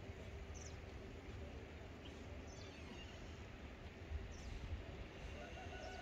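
A few faint, short bird chirps, spaced a second or two apart, over a steady low rumble.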